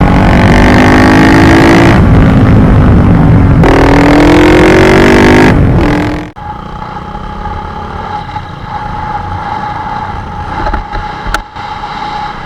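Motorcycle engine revving hard and very loud, its pitch climbing, dropping back twice and climbing again. About six seconds in it cuts off suddenly to a much quieter, steady engine hum.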